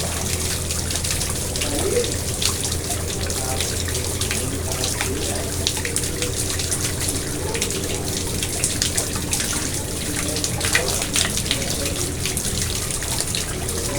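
Water in a garden pond splashing and trickling steadily, with many small splashes and drips throughout.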